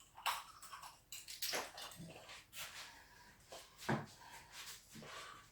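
Scattered rustles, taps and clicks of hands fiddling with a small tube of superglue, trying to get it open.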